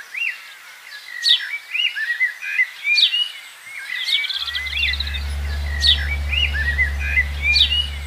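Small birds chirping and calling over and over, short sharp chirps mixed with brief whistled notes. A steady low hum joins them suddenly a little past halfway.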